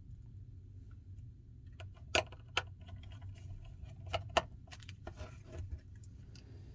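Light, separate clicks and taps of small tools and phone parts handled on a repair bench, about half a dozen, the sharpest ones about two seconds in and about four seconds in, over a low steady hum.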